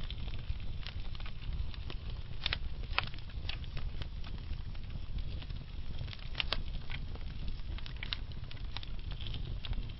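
Wood fire of burning logs crackling: a low steady rumble of flame with sharp irregular pops and snaps, a dozen or so scattered through.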